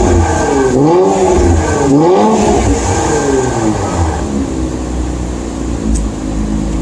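Infiniti Q50's exhaust, a Rev9 midsection into a PLM axle-back with no resonators, revved in about three quick blips a second apart, then settling back to a steady idle.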